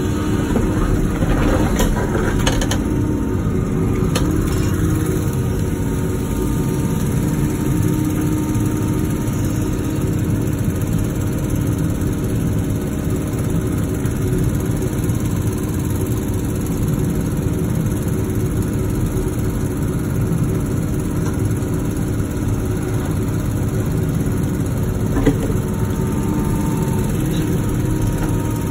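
Wacker Neuson ET145 excavator's diesel engine running steadily, with a few short knocks in the first few seconds and one more about 25 seconds in.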